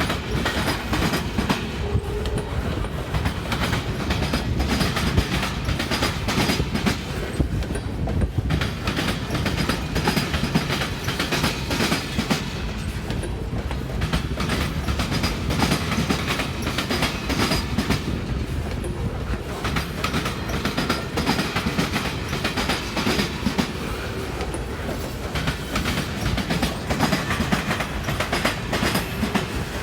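Freight train cars rolling past, wheels clicking rapidly over the rail joints over a steady low rumble.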